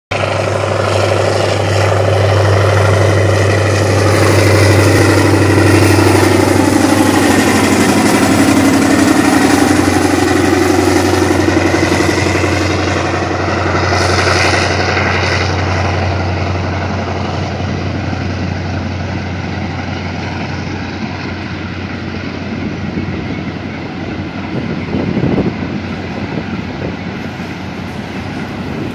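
DE24000 diesel-electric freight locomotive with a Pielstick 16PA4 V185 V16 diesel engine running past under power: a steady engine drone whose pitch sags as it goes by. This is followed by a string of empty coal wagons rolling past with wheel-and-rail rumble and a few clanks.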